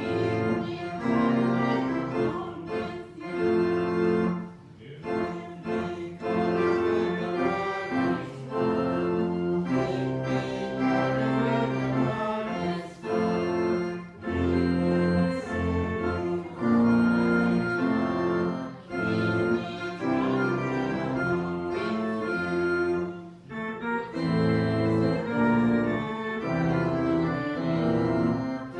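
Organ playing a hymn tune in held chords that change every second or two.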